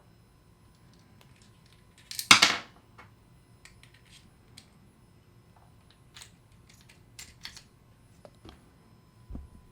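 Metal parts of a star drag fishing reel being handled as it is taken apart: one louder clatter about two seconds in, then scattered light clicks and a soft knock near the end.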